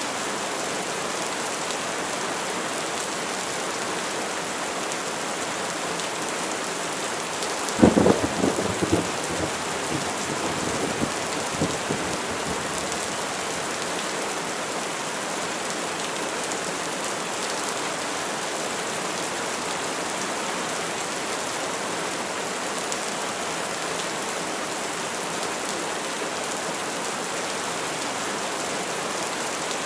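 Steady rain falling, with a sudden crack of thunder about a quarter of the way in that rumbles on for several seconds before the rain alone continues.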